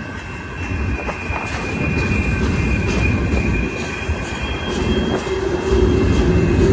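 Freight cars rolling past with a steady low rumble, the wheels squealing in high steady tones, and scattered clicks from the wheels. A lower-pitched squeal joins about five seconds in.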